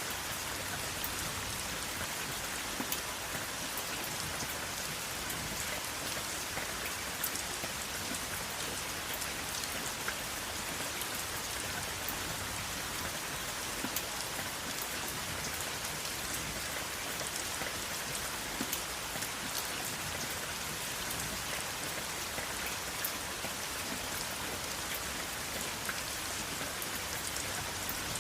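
Steady rain falling, an even hiss with many small scattered drop ticks, no thunder.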